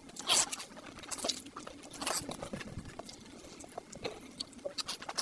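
Close-miked chewing of fried eggs: irregular wet smacks and mouth clicks, a few louder bites among softer ones.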